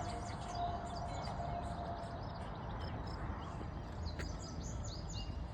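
Many songbirds chirping and whistling, over a steady low rumble. A faint steady tone fades out about two seconds in.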